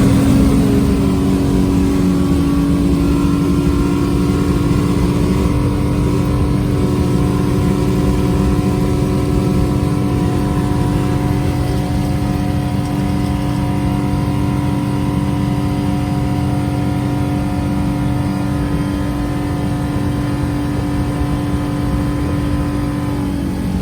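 V6 280 hp sterndrive with DuoProp drive running steadily at near top speed, about 55 mph, with a constant engine note over wind and water noise. The engine note drops suddenly right at the end.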